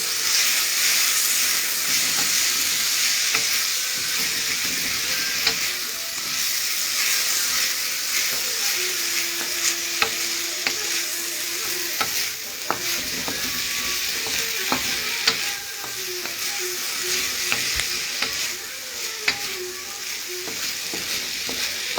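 Chicken, green beans and celery sizzling steadily in a hot wok as they are stir-fried, with scattered clicks of a utensil against the pan.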